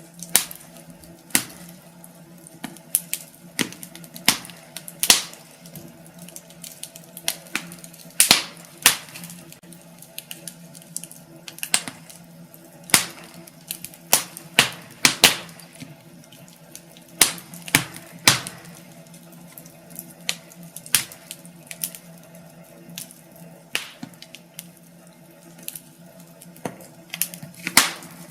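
Wood fire in a fireplace crackling: irregular sharp pops and snaps, one to several a second, over a faint steady hum.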